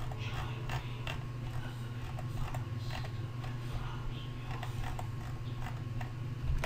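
Faint, irregular clicking from a computer mouse and keyboard being worked, over a steady low electrical hum.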